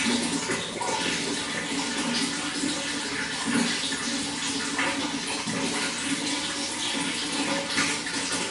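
Running water, flowing and splashing steadily.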